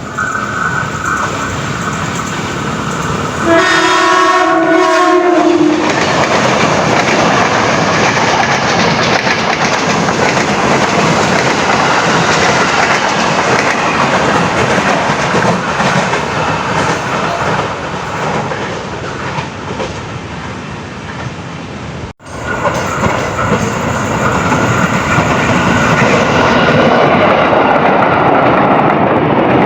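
A passing train sounds one horn blast of about two seconds, a few seconds in, then runs close by with loud running noise and wheel clatter on the rails.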